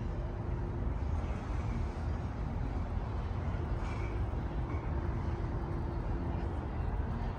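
Steady low rumble of outdoor background noise, with a faint hum that comes and goes.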